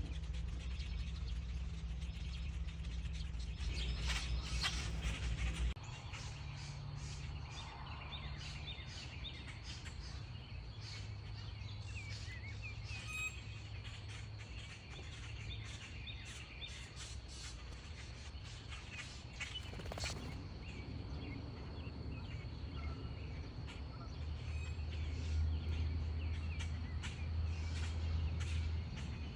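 Backyard birds chirping and calling in short, scattered notes over a low steady hum.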